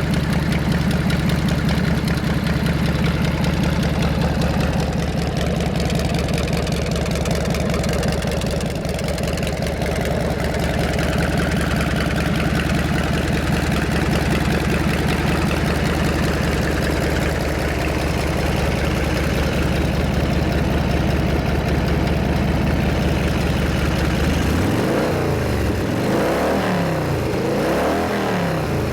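1992 Harley-Davidson FXRS's Evolution V-twin engine idling steadily, then revved up and down a few times near the end.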